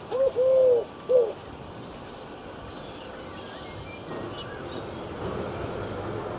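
Three close, loud hooting coos, short, long, then short, each rising and falling in pitch, from a bird.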